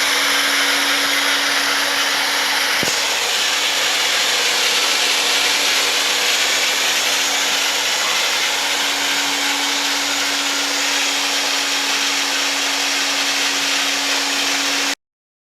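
Weber horizontal drill running with its motor at a steady speed: an even whirring noise with a constant hum. It stops abruptly near the end.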